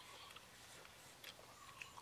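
Faint chewing and a few soft clicks of mouth noise from a person eating grilled pig intestine off a skewer.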